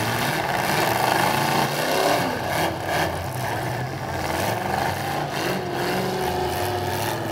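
Several demolition derby cars' engines running and revving unevenly at once, pitch rising and falling, with a few sharp knocks of metal hitting metal.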